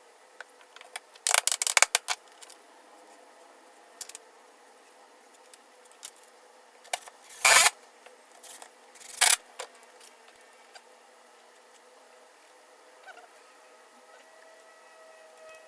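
Small parts being handled and set down on a workbench during a glue-up: a quick rattle of clicks about a second in, two louder knocks around the middle, scattered light clicks, and a faint squeak near the end.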